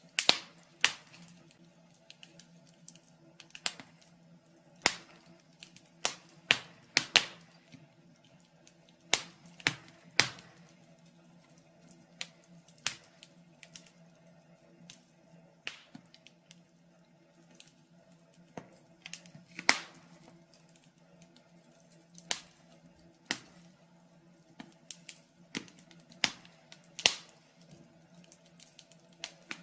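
Wood fire burning in a fireplace, crackling with irregular sharp pops and snaps, some in quick clusters, over a faint steady low hum.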